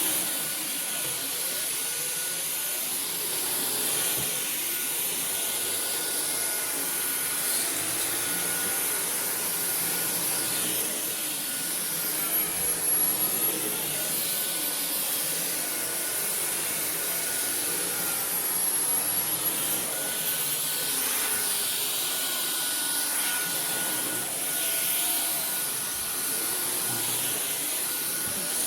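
Dyson V15 Detect cordless stick vacuum running over carpet with a steady high motor whine. Twice, about halfway through and again a few seconds later, the motor pitch drops briefly and then climbs back as the motor changes speed.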